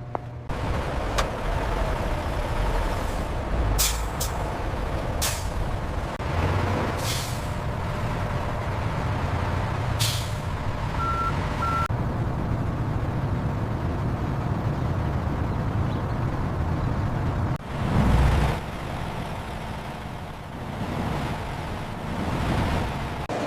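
Steady low mechanical rumble with several short, sharp hisses of released air, two short beeps about eleven seconds in, and a brief louder surge near the end.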